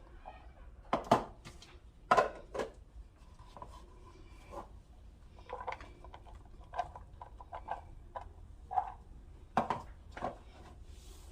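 Irregular clinks and knocks of kitchen utensils and dishes being handled, a few sharp ones standing out over a low steady hum.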